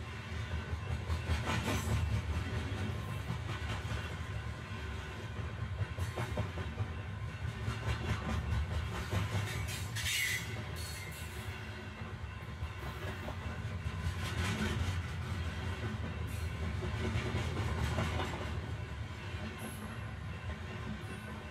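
A train running on rails: a steady low rumble with a dense clatter of clicks, swelling a few times, over faint background music.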